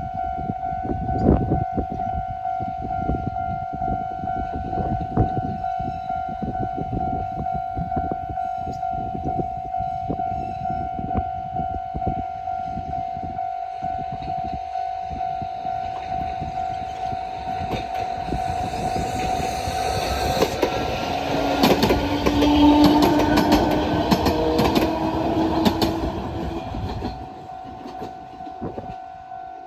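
Level-crossing warning bell ringing steadily while a Hokusei Line 762 mm narrow-gauge train rumbles and clatters over the crossing. The train is loudest a little past the middle, with a rising whine, and fades away near the end while the bell keeps ringing.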